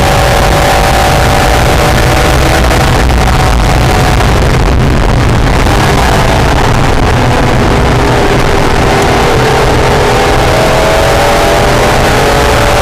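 Acura NSX's V6 engine running hard at track speed under loud, steady wind and road noise. The engine note eases off around the middle, then climbs again as it accelerates.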